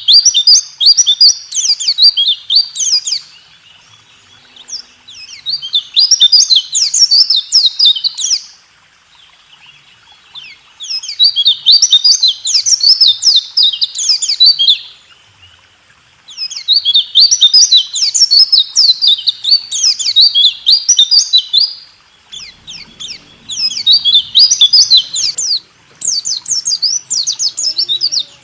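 Pleci (white-eye) singing its fast 'roll tembak' song: rapid, high chirping trills in bursts of a few seconds with short pauses between.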